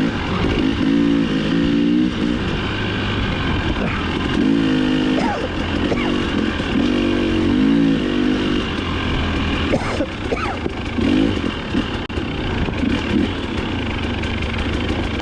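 Dirt bike engine being ridden hard off-road, its note rising and falling again and again as the throttle is worked. A few sharp knocks come near ten seconds in.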